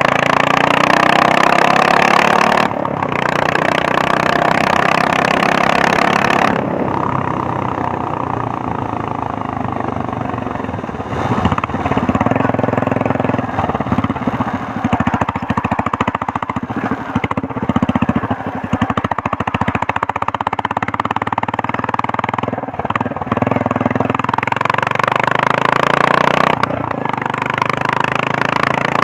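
Royal Enfield Meteor 350's single-cylinder engine pulling under way through its exhaust, with a helicopter-like beat. It runs hard for the first six or so seconds with a brief dip about three seconds in, eases into a lower, slower thud through the middle, and picks up again near the end.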